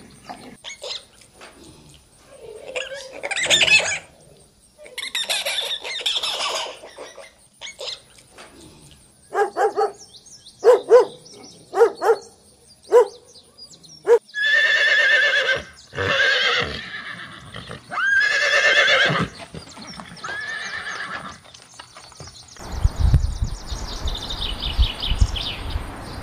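A run of different animal calls one after another, several separate sounding clips in a row. Near the end a chaffinch gives a few high chirps over a low rumble.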